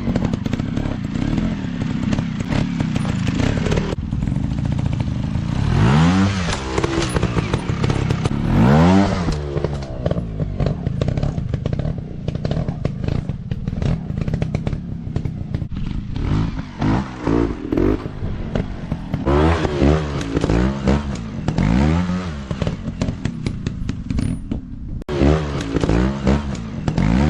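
Off-road motorcycle engines revving in repeated throttle bursts, the pitch rising and falling every few seconds over a continuous engine drone.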